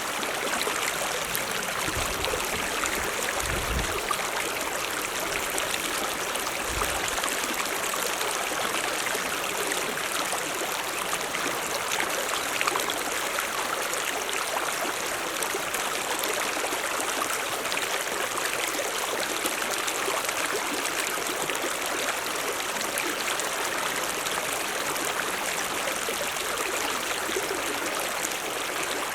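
Mountain stream running steadily, an even rush of water over rocks.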